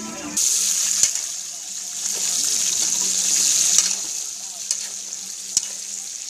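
Pieces of pork sizzling as they fry in hot oil in a stainless steel wok, stirred with a spatula that gives a few sharp taps against the pan. The sizzle starts suddenly about half a second in and eases off in the last couple of seconds.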